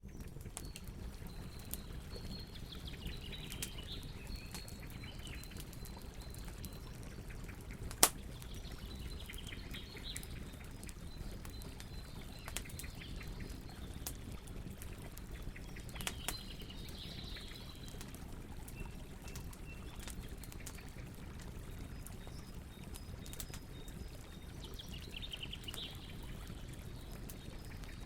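Campfire crackling, with scattered sharp snaps over a low steady rush and one loud pop about eight seconds in. Faint high-pitched chirping calls come and go in the background.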